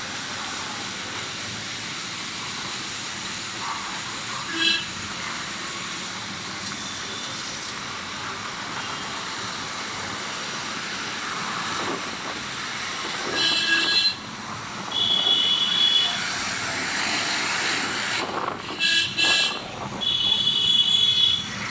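Steady traffic noise with a vehicle horn honking several times in the second half: a short honk, a longer one, then a run of honks near the end.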